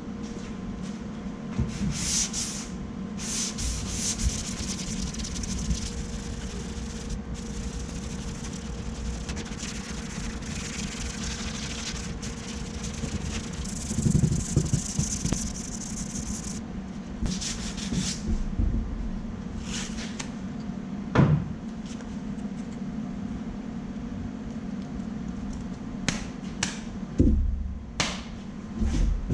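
Block-sanding a dented body panel by hand with 80-grit paper on a large styrofoam block: intermittent rasping strokes over a steady low hum, with a few sharp knocks in the second half.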